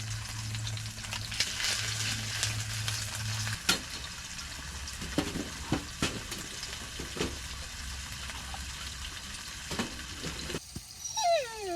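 Bison burger patty sizzling as it fries in olive oil in a pan on a wood stove, with a few sharp knocks. A low hum stops a few seconds in, and a short falling whine comes near the end.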